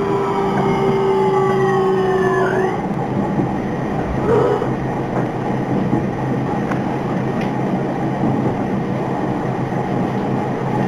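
Electric commuter train heard from inside the carriage: a whine from the traction motors falls in pitch and cuts off about three seconds in, leaving the steady rumble of the wheels on the rails.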